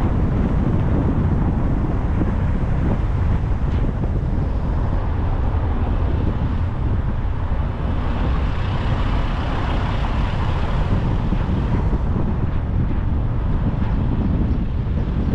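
Wind buffeting the microphone over the steady low rumble of a car driving on a road. A brighter hiss swells and fades around the middle.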